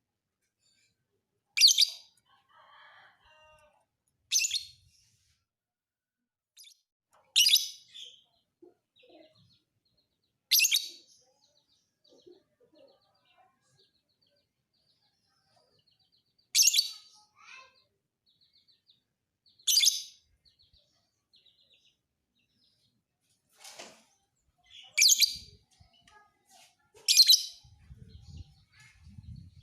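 Lovebird giving shrill, high chirping bursts: eight short calls, each about half a second, a few seconds apart.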